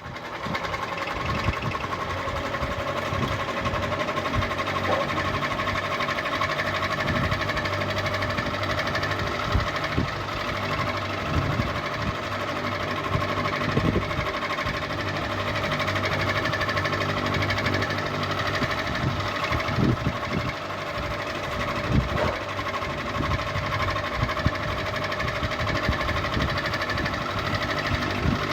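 Ceiling fan running steadily with a constant hum and whir, with irregular light knocks or clicks now and then.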